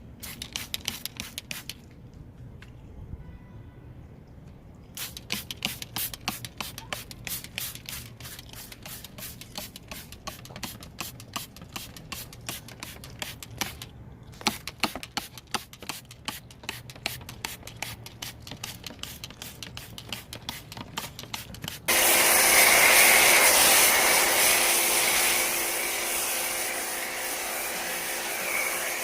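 Quick scrubbing strokes, as of a detailing brush worked over engine-bay parts, pausing a couple of times. About three-quarters of the way through, a loud steady spray hiss starts suddenly and keeps going.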